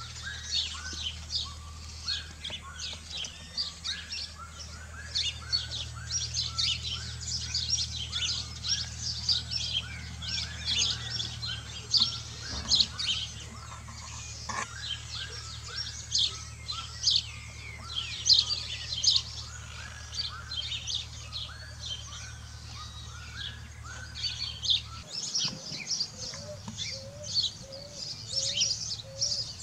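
Birds chirping and calling busily, many short high chirps in quick succession over a steadily repeated lower call. A few lower notes come in a short series near the end.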